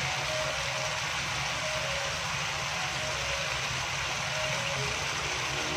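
Sliced okra and grated coconut sizzling steadily as they are stir-fried in a wok and turned with a wooden spatula, over a steady low hum.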